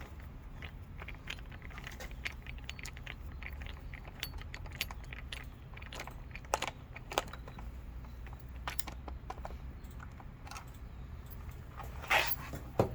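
Light metallic clicks and clinks of an Allen key and small screws as fasteners holding a rubber cover on a folding mobility scooter's tiller are backed out, scattered irregularly, with a louder clatter about twelve seconds in. A steady low hum runs underneath.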